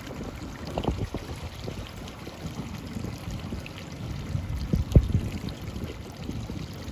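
Water sloshing and splashing against a small boat's hull as it sails, with low buffeting and a sharp knock about five seconds in.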